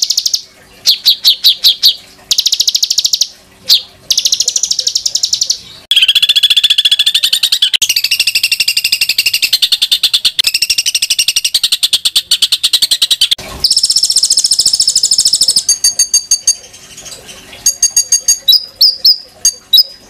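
Songbirds singing harsh, rapid 'tembakan' phrases used as masteran tutor song for competition birds: fast rattling note series at first, then a long buzzy trill and a high trill, then a run of sharp, separate high chirps near the end.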